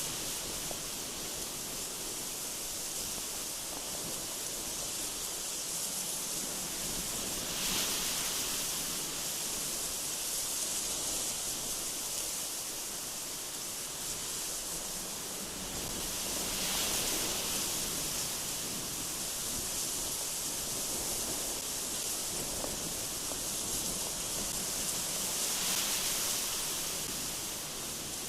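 Strong, gusty wind rushing through trees: a steady hiss that swells with a gust about every nine seconds.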